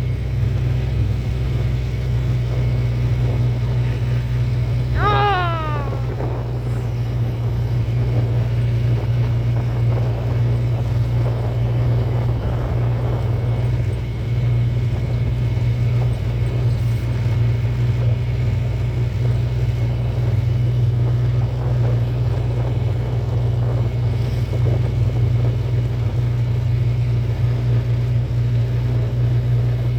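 Motor vehicle engine running steadily with a constant low hum. About five seconds in, a short cry falls in pitch.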